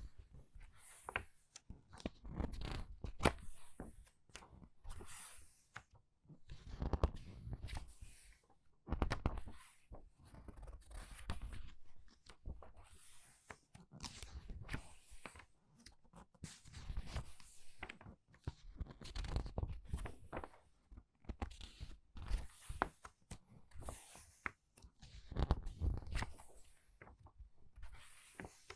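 Book pages being turned quickly by hand: a run of paper flips and rustles, with some pages squeezed and crinkled.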